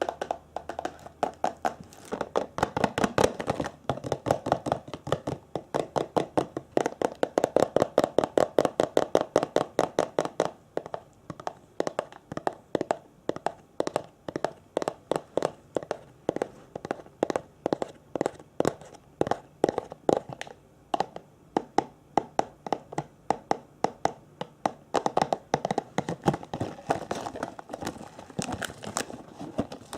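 Rapid tapping on an object as an ASMR trigger, many quick taps a second, densest and loudest in the first third and thinning out after about ten seconds.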